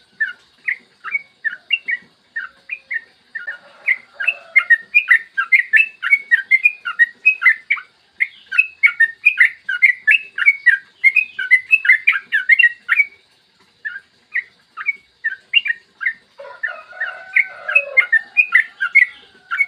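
Yellow-vented bulbul (trucukan) singing a long rapid-fire song: fast runs of short, bright notes, several a second, broken by brief pauses. Lower warbling phrases come in about four seconds in and again near the end.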